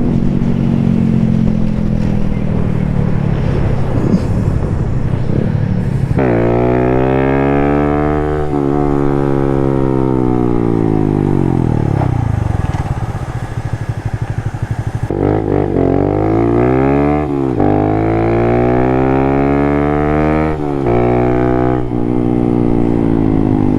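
Small single-cylinder Honda motorcycle engine under way, its pitch climbing hard about six seconds in, then falling away slowly as it slows, then climbing again in steps with short breaks between gear changes. A steady rush of wind runs underneath.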